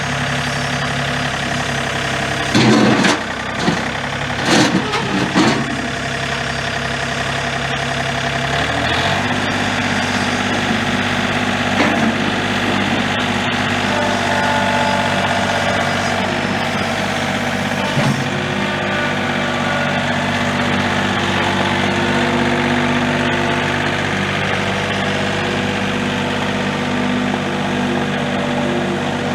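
John Deere 4105's three-cylinder turbo diesel running steadily, with its engine speed stepping up about nine seconds in. A few loud clatters come a few seconds in.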